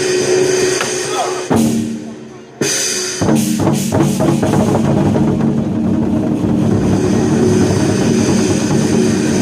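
Chinese war drums played by a drum troupe over loud amplified backing music. A sharp hit about one and a half seconds in fades into a brief lull, then the music and drumming come back in hard and carry on.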